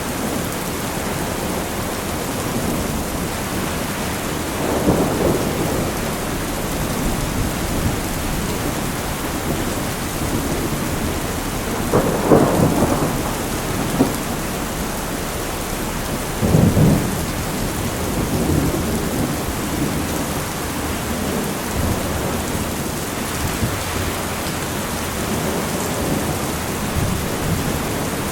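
Steady rain falling in a thunderstorm, with several low rolls of thunder swelling over it, the loudest about twelve seconds in and another shortly after sixteen seconds.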